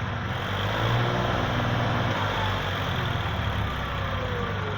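Heavy diesel engine running at low revs. It works harder about a second in, then eases back to a steady run.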